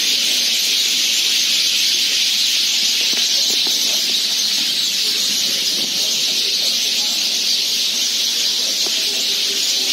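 A large flock of house sparrows chirping all at once, their calls merging into a steady, shrill wall of chatter.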